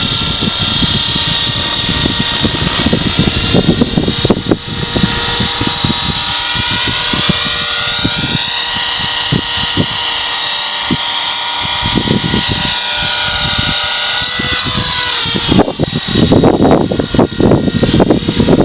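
Blue Ray 450 RC helicopter running in flight, its high whine dipping in pitch and climbing back in the middle. Wind buffets the microphone throughout, with heavy gusts near the end.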